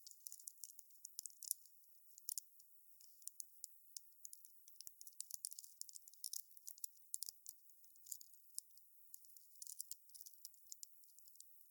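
Wood fire crackling: a dense, irregular run of small sharp snaps and pops, thin and high-pitched, with no low roar of flame.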